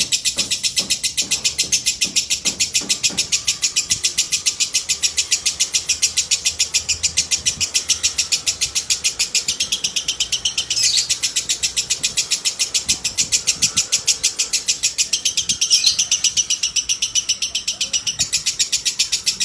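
Lovebird chattering in a long unbroken trill, a fast even high-pitched pulsing, with two brief louder flares about eleven and sixteen seconds in.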